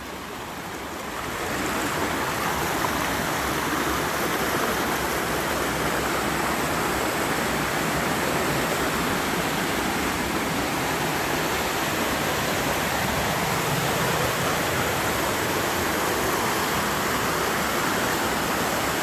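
Steady rush of flowing river water, swelling over the first second or two and then holding even.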